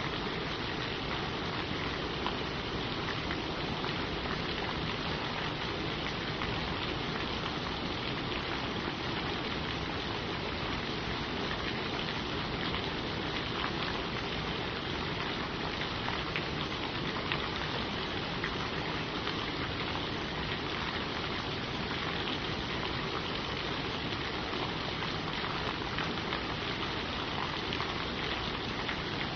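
Steady rain falling on leaves, an even patter of drops with no thunder.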